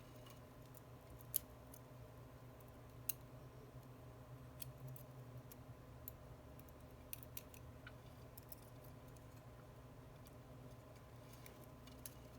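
Scattered sharp, faint clicks and ticks of small hand tools working on a phone's cracked screen, over a steady low hum.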